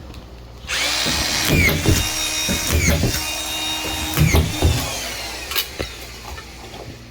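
Power drill running and driving screws into timber, its high motor whine dipping in pitch under load a few times, then dying away about five seconds in.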